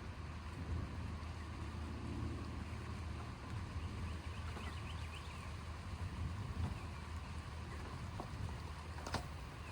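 A low, steady rumble, with a faint sharp click about nine seconds in.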